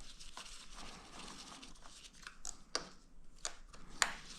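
Hand work with a ball-end Allen key on the velocity-stack bolts: soft handling noise and a few short, sharp clicks of tool and bolts, the sharpest about four seconds in.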